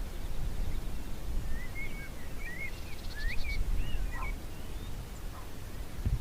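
A songbird singing one short phrase of quick, warbling notes that slide up and down, with a fast high trill partway through, over a steady low rumble.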